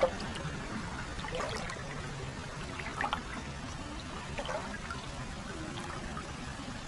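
Hot-spring water pouring and trickling steadily into a foot bath, with scattered small splashes and drips.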